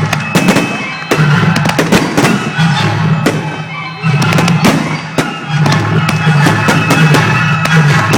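Fireworks going off, many sharp bangs and crackles in quick succession, over loud music with a strong bass line.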